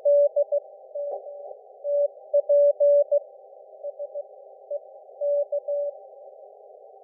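Morse code (CW) from an Icom IC-705 amateur radio transceiver on the 7 MHz band: dots and dashes of one steady beep, broken by short pauses, over steady receiver hiss. Some characters come through loud and some much fainter in the middle. This is Japanese wabun Morse chat.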